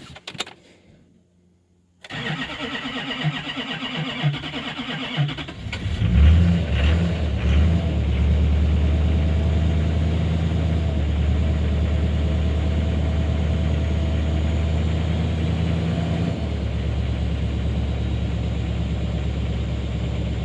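Common-rail diesel truck engine cranking on the starter for a few seconds, catching about six seconds in with a few quick revs, then settling into a steady idle. It restarts after the fuel system was hand-primed to bleed out air; the owner blames a pinhole leak in the fuel line from the tank.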